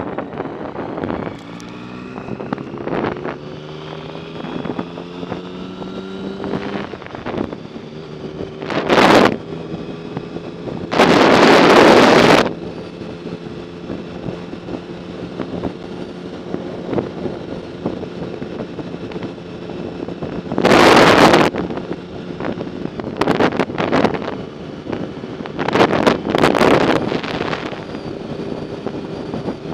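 Wind buffeting the microphone in several loud gusts, over a steady engine drone from a moving vehicle. In the first several seconds the engine's pitch rises slowly as it accelerates.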